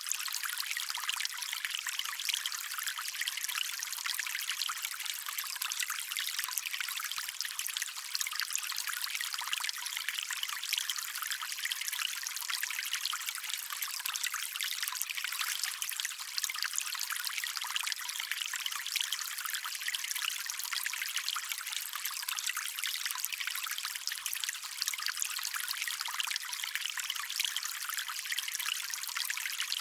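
A small stream trickling and running over stones in a steady, even babble. It sounds light and splashy, with no deep rumble.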